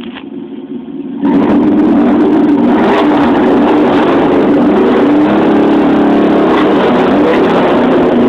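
Vortec 5.7 V8 of a 1998 Chevrolet K1500 pickup, breathing through a Flowmaster muffler, idling, then revved up about a second in and held loud and steady at high revs.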